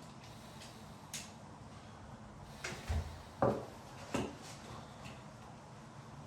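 Several sharp clicks and knocks of decorating tools being handled, the loudest about three and a half seconds in, over a low steady hum.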